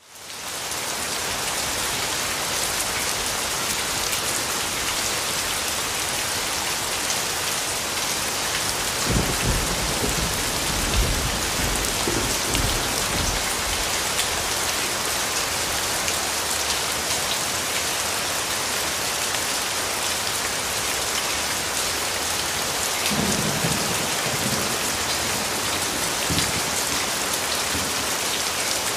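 Steady heavy rainfall on hard surfaces, fading in at the start, with low rolls of thunder rumbling about nine seconds in and again about twenty-three seconds in.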